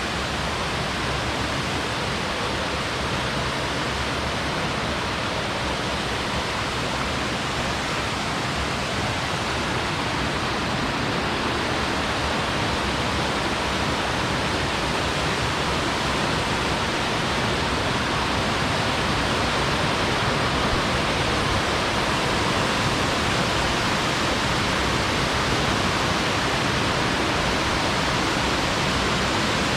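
Waterfall: falling water rushing in a steady, even roar that never lets up.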